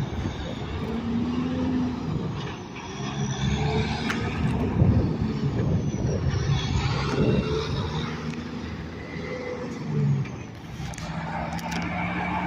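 Road traffic passing: engines of trucks and cars running by, with steady tyre and road noise. Their engine pitch shifts up and down as each vehicle approaches and goes by.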